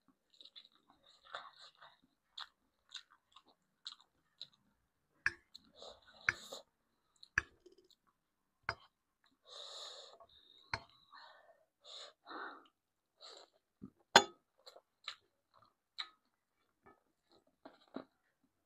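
Close-miked chewing with wet mouth clicks and smacks, in short irregular bursts, with a few sharp clicks; the loudest is a sharp click about fourteen seconds in.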